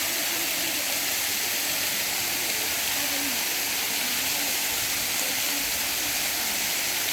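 Steady rushing hiss at a constant level, with faint distant voices underneath.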